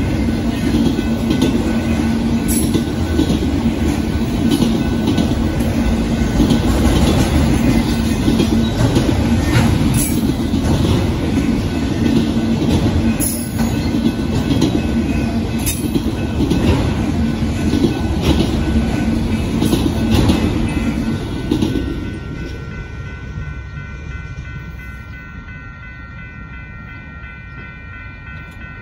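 Freight train of autorack cars rolling past, wheels clattering on the rails with occasional sharp clanks. The last car goes by about 22 seconds in and the train noise falls away, leaving a grade-crossing bell ringing.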